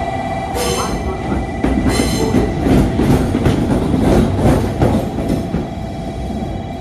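A train moving along the platform track, its wheels clattering over the rail joints. There are two brief high-pitched squeals in the first two seconds, and the clatter is loudest in the middle.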